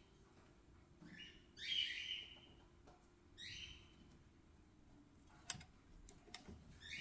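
A bird chirping: short, high calls repeated every second or two. There are two sharp clicks about five and a half and six and a half seconds in, over a faint steady hum.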